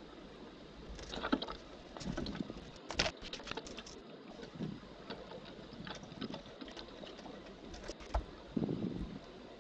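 Irregular scratching, rustling and a few dull knocks from birds shifting about; no calls.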